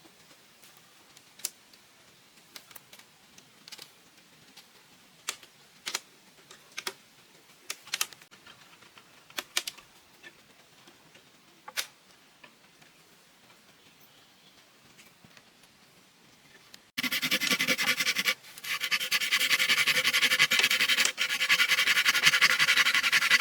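Scattered light clicks and taps. About seventeen seconds in, a loud, steady grinding, whirring noise starts and runs on with two brief dips.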